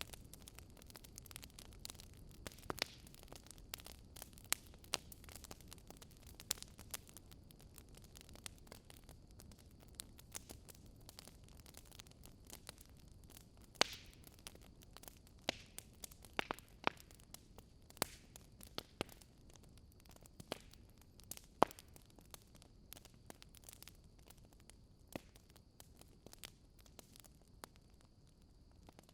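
Campfire burning, its wood crackling with irregular sharp pops and snaps, a few louder ones standing out, over a faint steady low noise of the fire.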